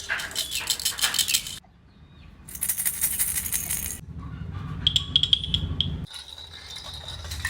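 Baby rattle toys shaken in quick bursts of dense clattering. The clatter stops abruptly about one and a half seconds in and starts again about a second later.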